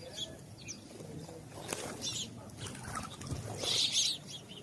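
House sparrows chirping: short, high chirps throughout, with a dense, loud burst of chirping near the end.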